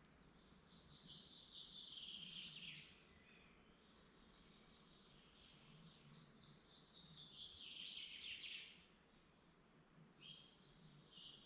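A songbird singing: two phrases of rapid notes that fall in pitch, each lasting about three seconds and a few seconds apart, followed by a few short notes near the end.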